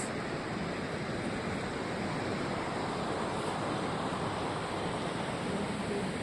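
Steady rushing of a mountain river flowing nearby.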